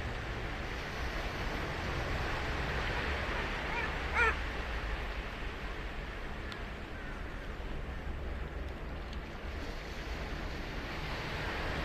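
Ocean surf washing steadily onto a sandy beach, with a short high-pitched cry about four seconds in.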